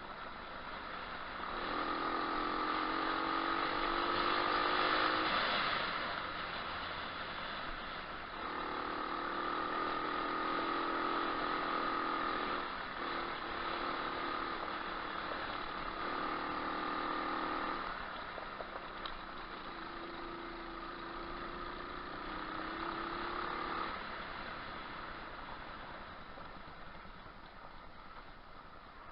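Moto4 125cc pit bike's single-cylinder four-stroke engine revving in about four bursts of throttle, each rising in pitch, with drops between them; it fades away near the end.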